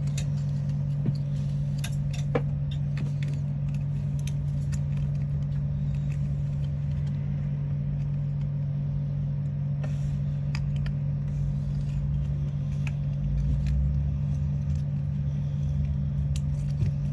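A steady low hum with scattered light clicks and taps, the small handling sounds of paper or plastic model parts being worked by hand.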